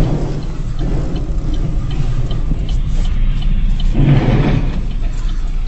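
Steady engine and road noise of a moving vehicle, swelling louder for about half a second around four seconds in, with faint scattered ticks.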